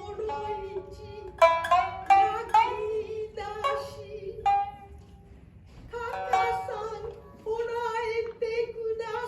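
Two shamisen playing a shinnai-bushi passage, the main part with the higher-tuned uwajōshi: sharp plucked notes that ring and fade, in irregular phrases with a short pause about five seconds in, over a held, wavering tone.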